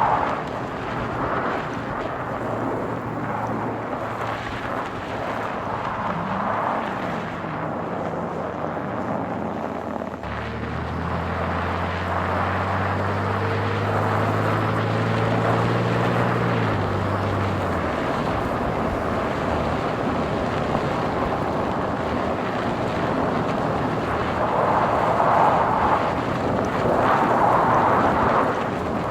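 Car driving: steady tyre and road noise with wind, and an engine note that swells about a third of the way through and dies away several seconds later.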